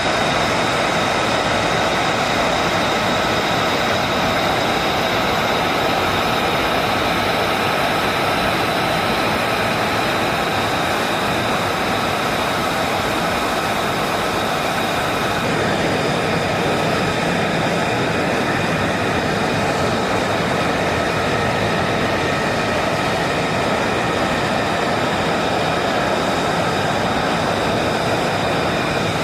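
Jet aircraft engines running steadily: a constant loud rush with a steady high whine that neither rises nor falls.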